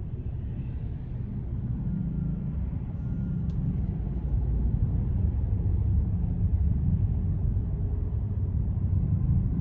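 Car driving in traffic: a steady low rumble of engine and road noise, growing a little louder about halfway through, with one faint tick a few seconds in.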